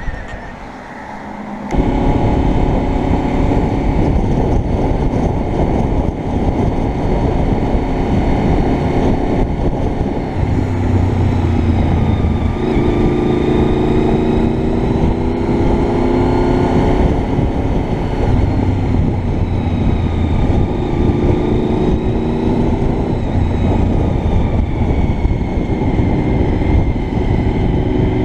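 Honda VFR750's V4 engine running as the motorcycle rides off and travels on, with heavy wind rush on the helmet camera. The noise jumps up suddenly about two seconds in, and the engine note changes pitch several times along the way.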